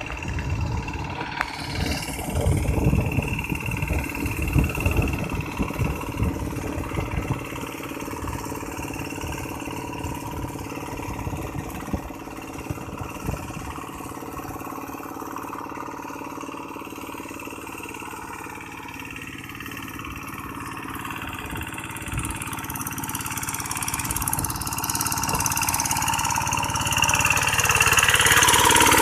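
Paddy-field tractor's engine running steadily, with uneven low thumps in the first several seconds, growing louder over the last third as it draws nearer or works harder.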